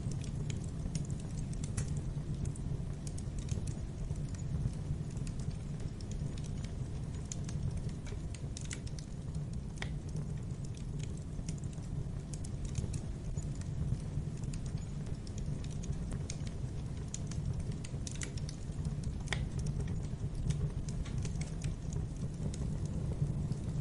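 Wood fire burning in a fireplace: a steady low rumble of flames with irregular crackles and sharp pops.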